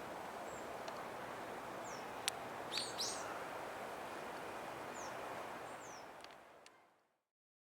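Wild birds giving short, high, down-slurred calls several times, the loudest pair about three seconds in, over a steady hiss of outdoor background noise with a few sharp clicks. The sound fades out about seven seconds in.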